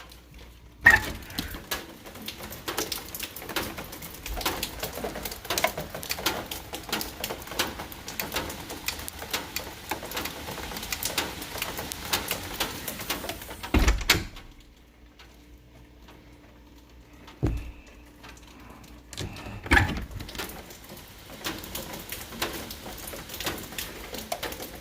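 Heavy rain pattering as a dense crackle of drop hits, starting abruptly about a second in. It drops away suddenly with a thump about halfway through and comes back with another thump a few seconds later.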